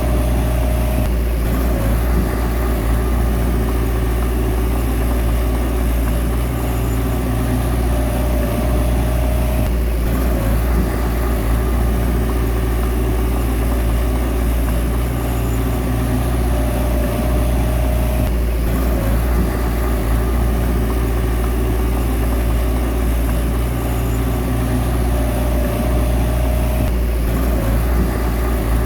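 Bulldozer's heavy diesel engine running steadily. About every nine seconds a faint tone rises for a second or two, and then there is a brief break.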